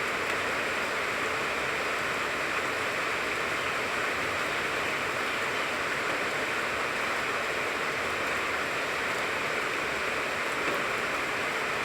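Steady rain falling on a tangerine tree, a continuous even hiss of drops with no let-up.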